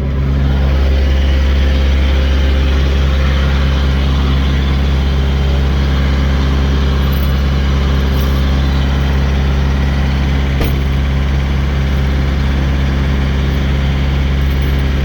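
Diesel engine running steadily at idle, a loud, even, deep drone that does not change.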